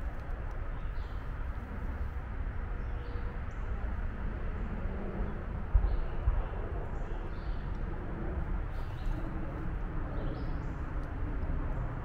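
Faint, scattered songbird chirps in woodland over a steady low rumble, with a brief low thump about six seconds in.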